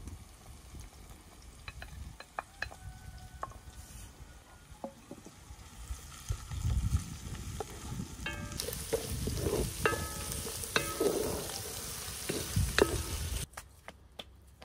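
Food frying in a metal pot while a utensil stirs it, with clicks and clanks that ring briefly. About two-thirds of the way in, a loud sizzle starts, and it cuts off suddenly near the end.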